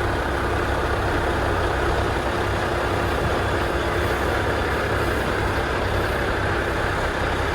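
Semi-truck's diesel engine running steadily at low revs while backing a trailer, a constant low drone.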